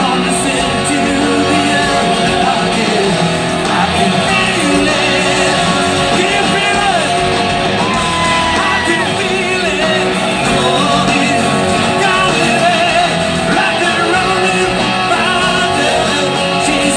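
Loud live rock band playing with guitar and singing, recorded from the audience in a large hall.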